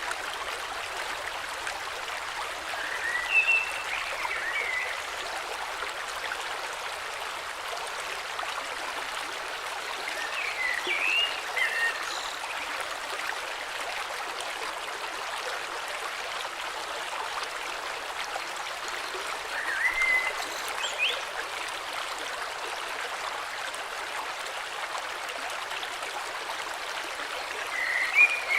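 Flowing river, a steady rush of water, with short bursts of birdsong four times: a few chirps at a time, spaced several seconds apart.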